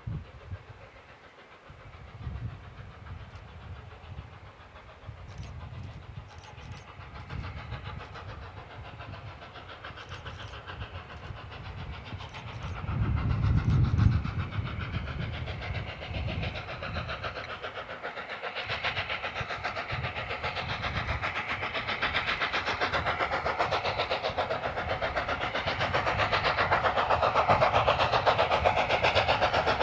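Steam locomotive approaching and working hard, growing steadily louder, with a fast regular beat that builds through the second half. A brief louder low rumble comes about halfway.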